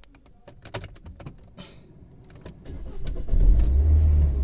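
A few light clicks, then the Renault Duster's diesel engine cranks and starts about three seconds in, settling into a steady low idle.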